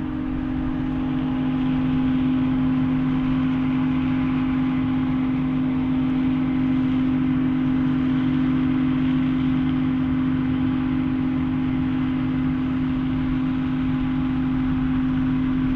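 Heavy farm machinery of a corn chopping harvest running steadily under load, with a strong constant drone. It swells a little in the first couple of seconds, then holds level.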